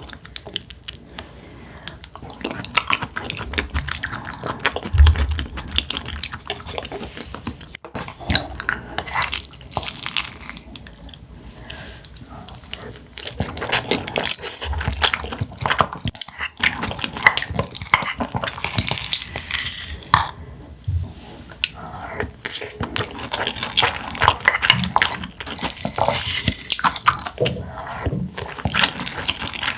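Close-miked wet chewing and mouth sounds of a person eating, with many small sharp clicks.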